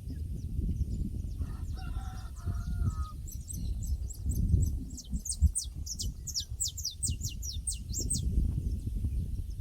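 A rooster crows once, briefly, about a second and a half in, then a small bird sings a quick run of high, downward-sliding notes for several seconds. A steady low rumbling noise runs underneath.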